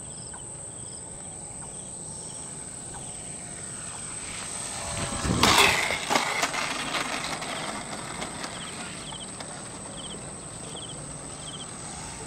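Electric RC Cessna 182 model plane passing overhead: its motor whine swells to a peak about five seconds in, dropping in pitch as it goes by, then fades. Crickets chirp in short regular bursts throughout.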